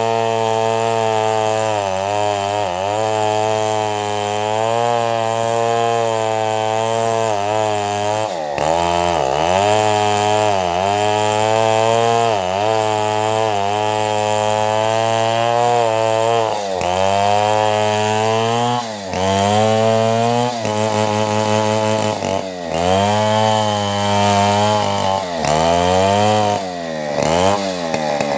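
Two-stroke chainsaw running under load, ripping a log into planks. The engine holds a steady pitch at first, then from about a third of the way in its pitch dips and recovers every second or two as the chain bogs in the cut.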